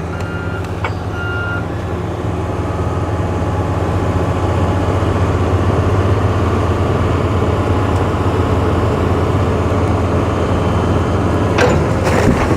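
Excavator's diesel engine working under load with a steady low drone, growing a little louder after a few seconds as it handles a boulder of thousands of pounds. A reversing alarm beeps twice near the start, and a short clatter comes near the end.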